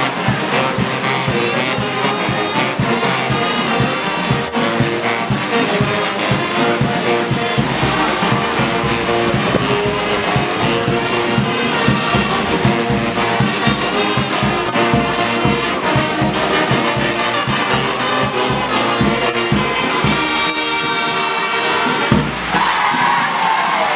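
Brass band playing march music for a parade, its horns sounding over a steady drumbeat.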